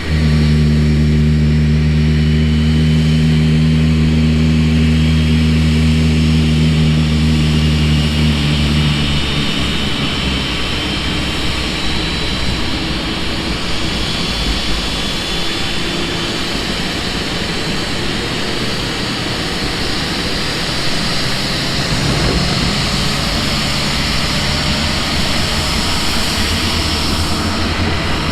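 Jet aircraft engine running loud, its high whine slowly rising in pitch. A steady low engine hum underneath stops about nine seconds in.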